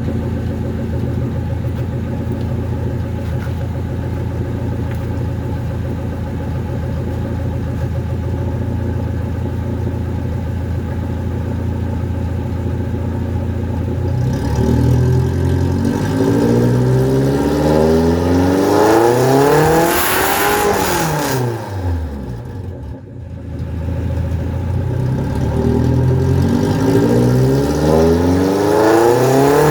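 Mitsubishi 4G33 1.4 L four-cylinder engine, carbureted, idling steadily for about half the time. It is then revved: the pitch climbs to a peak, falls back as the throttle closes, and climbs again near the end.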